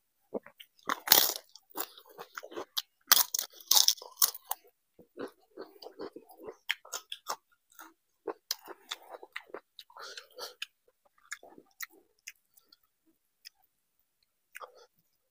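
Close-miked chewing of crisp fried papad, with loud crunches for the first four or five seconds, then softer, wetter chewing and lip smacks that thin out toward the end.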